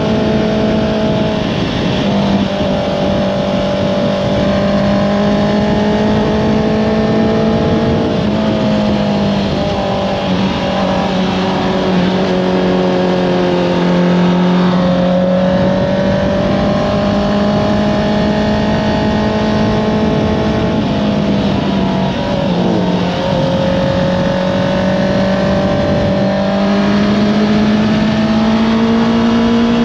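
Honda CBR650R's inline-four engine through an Akrapovič exhaust, under way. Its note rises and falls with the throttle and changes pitch several times as the gears change.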